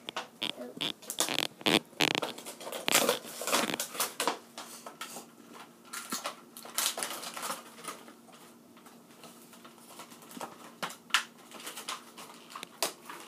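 Crinkling, crackling and rustling of toy packaging being handled and pulled open. The crackles are dense for the first few seconds, then thin out to scattered clicks and rustles.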